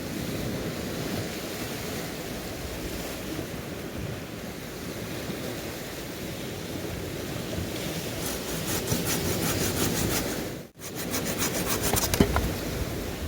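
Waves washing steadily on the shore; from about eight seconds in, a hand saw cutting wood with quick, regular strokes, broken once by a short gap before it resumes.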